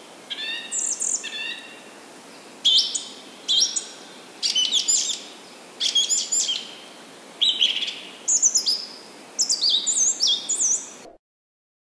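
Birdsong: short, high chirping phrases, one every second or so, over a steady background hiss. It cuts off suddenly near the end.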